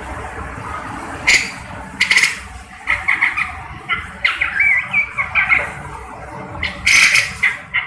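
Cucak jenggot (grey-cheeked bulbul) calling: harsh, squawking calls about a second in, again at two seconds and near the end, with runs of quick chattering notes in between.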